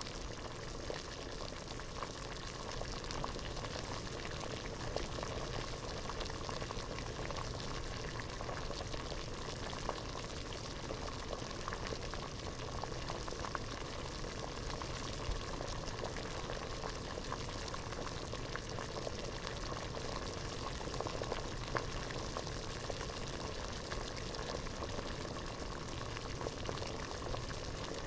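Water at a rolling boil in a pot, bubbling steadily with many small pops and ticks.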